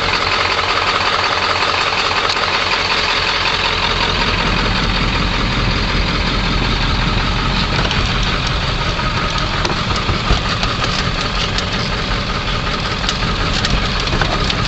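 Big diesel truck's engine running steadily at low speed, heard from inside the cab, with a few light knocks near the end.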